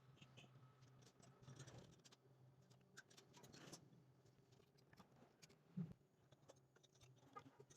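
Near silence: faint scattered clicks and light scraping over a low steady hum.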